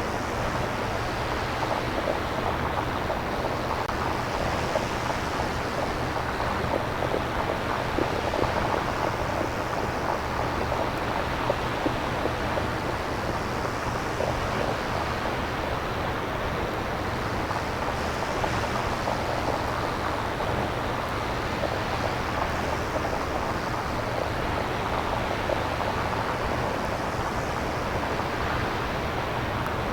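Synthesizer-generated nature ambience: a steady wash of noise, like surf or wind, with a fine crackle through it and a slow swell every few seconds.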